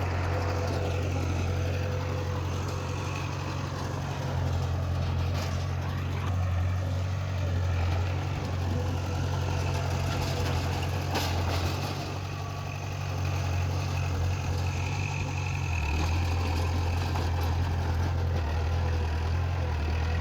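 Heavy earthmoving machine's diesel engine running steadily; its low note drops and grows slightly louder about sixteen seconds in.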